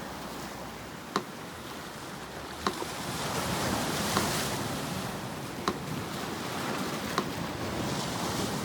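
Sea surf washing and swelling in slow waves, with a metronome ticking evenly about every second and a half, five ticks in all.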